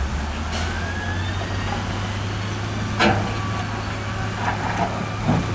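Heavy diesel construction machinery running steadily with a low drone, with a sharp knock about three seconds in and a few lighter knocks near the end.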